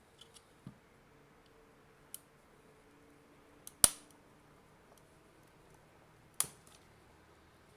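Sharp clicks and snaps of hard plastic as the ultrasonically welded case of an AC adapter is pried at: a few small ticks, then two loud cracks, about four and six and a half seconds in, the first the loudest.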